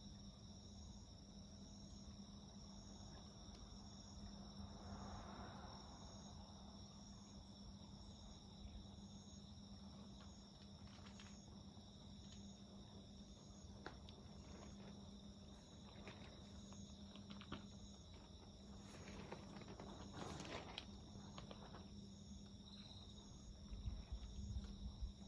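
Faint steady chirping of crickets and other autumn insects, with a regularly pulsing call above a continuous trill. Scattered sharp crackles and pops come from a wood campfire, thickest about three-quarters of the way through.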